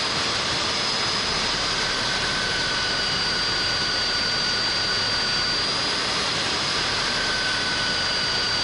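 Magnetic drill (mag drill) boring a hole through steel: a steady motor whine with a constant high tone over a hiss of cutting noise.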